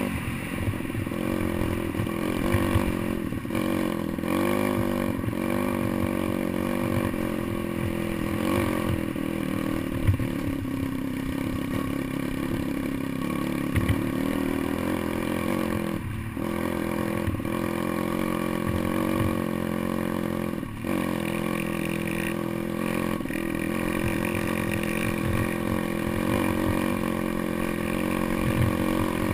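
Pit bike engine running off-road, its pitch rising and falling with the throttle, with scattered knocks and rattles from the bike over rough ground.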